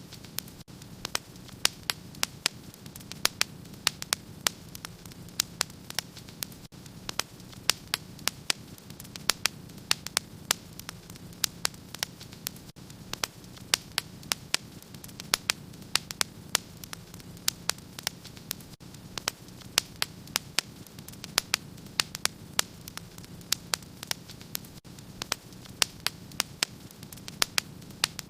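Wood fire crackling in a fireplace: frequent sharp pops and snaps, several a second, over a steady low hum and hiss.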